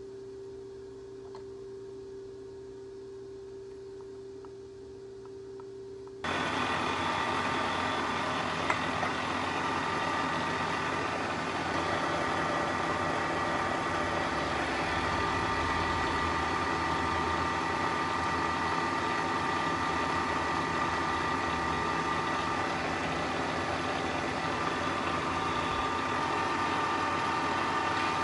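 A milling machine runs a large end mill across an aluminium bar to face it flat. A quieter steady hum with one clear tone is heard first. About six seconds in it jumps suddenly to a much louder, steady machining sound with several steady whining tones, and there is a single click a couple of seconds later.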